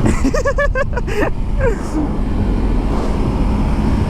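A short burst of laughter, five or six quick rising-and-falling 'ha's in just over a second, then one trailing sound, over the steady rush of wind and engine from a 2019 Yamaha R3 riding at speed.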